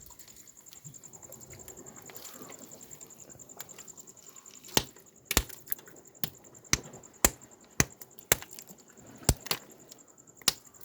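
Charcoal fire with snails roasting in their shells on it: sharp, irregular cracks and pops, about a dozen, starting about halfway through.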